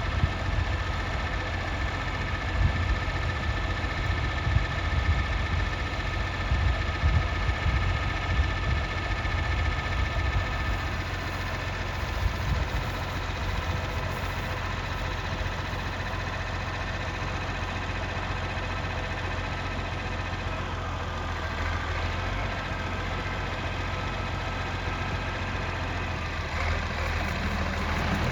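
Massey Ferguson 1130's Perkins six-cylinder diesel engine idling steadily.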